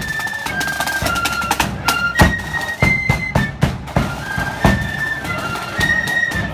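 Marching flute band playing a tune: high flutes in unison hold and step between notes over snare drum rolls and a bass drum beat. The drum strokes fall about once a second.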